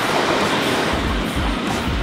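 Rushing, rumbling running noise of a moving train heard through an open carriage window, with another electric suburban train passing close alongside on the next track.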